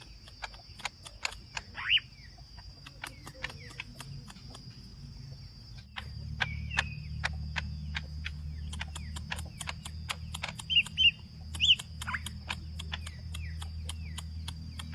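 Cucak ijo (green leafbird) calling: rapid sharp clicks, several a second, mixed with short whistled chirps and a few downward-sliding notes. Under them run a steady high tone and a low hum that gets louder about six seconds in.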